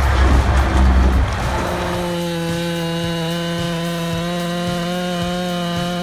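A heavy low rumble for about the first second and a half, then a chainsaw running at steady, high, unchanging revs.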